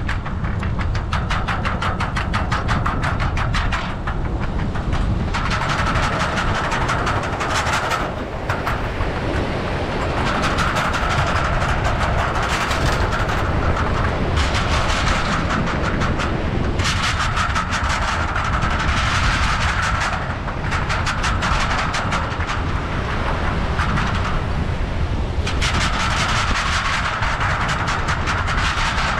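Bicycle on the move: steady wind rumble on the microphone, with rapid, even ticking that comes and goes in stretches of a few seconds.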